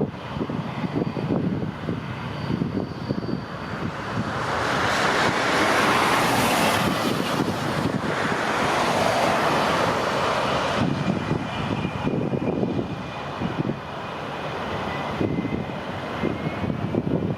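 Boeing 787 jet engines at taxi power, a hiss and faint whine that swells as the airliner passes and fades again, with gusty wind buffeting the microphone.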